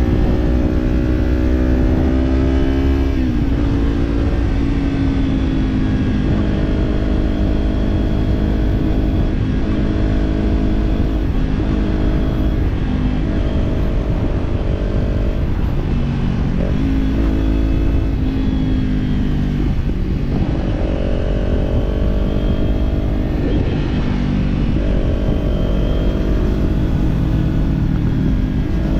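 Kawasaki parallel-twin motorcycle engine running under way, its note falling about three seconds in and then rising and dropping in steps as the bike changes speed and gear. Wind rumble rides underneath.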